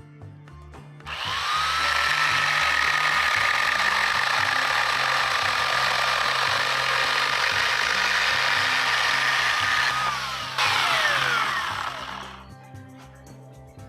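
GreenWorks 10-inch 6-amp corded electric chainsaw spinning up about a second in and running steadily with a high motor whine as it cuts through wood. Near the end the trigger is let go and the whine falls in pitch as the chain coasts to a stop.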